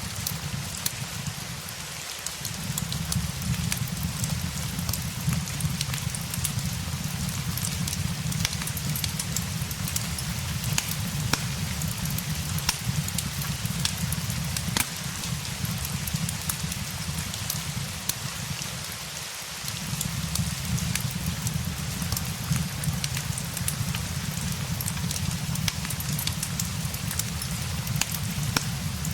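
Steady rain with a fireplace crackling, sharp pops scattered through a low rumble. The low rumble drops out briefly about two seconds in and again about two-thirds of the way through.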